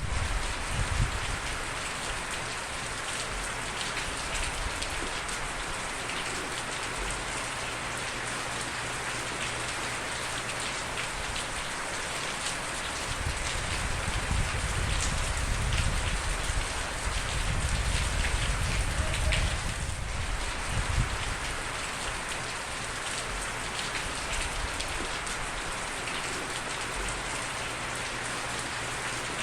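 Steady rain falling on a surface, dense and even, with individual drops tapping close by. A low rumble swells and fades about halfway through.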